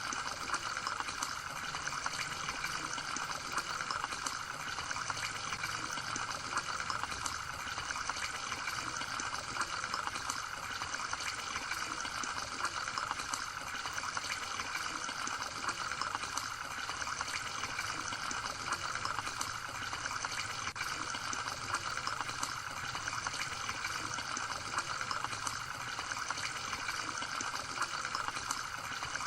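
Water trickling and flowing steadily, with a constant high hiss and no break.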